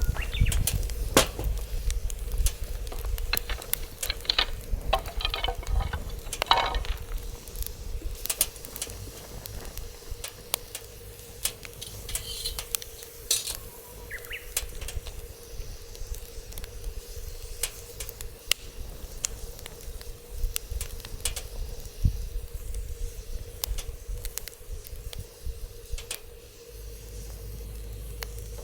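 Wood fire crackling and popping in a fire pit, with irregular sharp snaps and short spells of hissing, over a low rumble of wind on the microphone.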